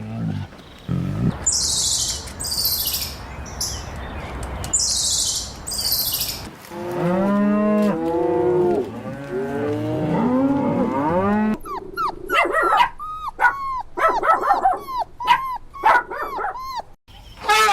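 Farm animal calls: cattle mooing in a run of bending, drawn-out calls from about seven seconds in, then many quick, short high cries near the end. The first few seconds are a hissy noise with several high bursts.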